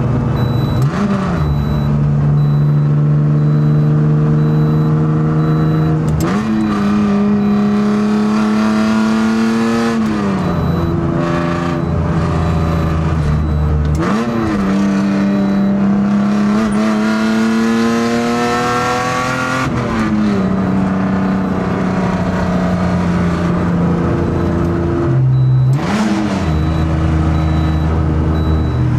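BMW M3 E30's four-cylinder S14 engine pulling hard under load, its pitch climbing slowly through each gear. About five or six gear changes break it, each a quick flick in revs before the pitch settles and climbs again.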